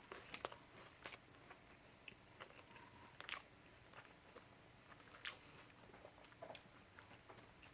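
Faint biting and chewing of a fried chicken sandwich, with scattered crunches from the crispy fried breading.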